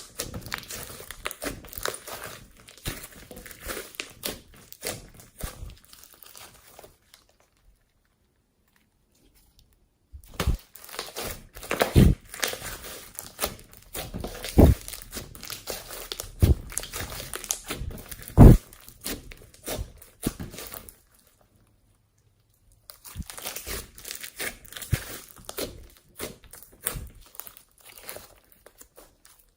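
Slime being squeezed and worked by hand, making a crackling, crinkling sound, with several dull thumps in the middle stretch and two short breaks of silence.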